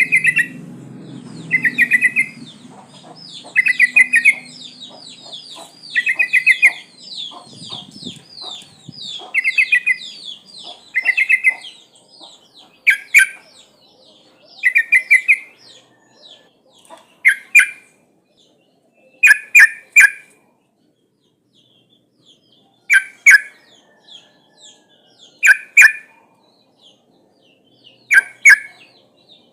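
Yellow-vented bulbul (trucukan) calling: short bubbly phrases repeated every second or two over a fast, higher twittering run, then sharper phrases a few seconds apart in the second half. It is presented as a female in breeding condition calling to males.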